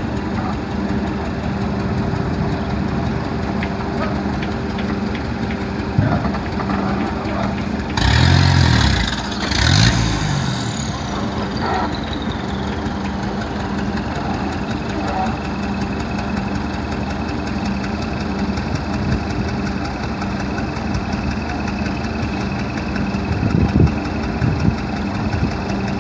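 An engine idling steadily. About eight seconds in, a louder surge of noise with low tones sliding up and down, followed by a high tone falling in pitch over a few seconds.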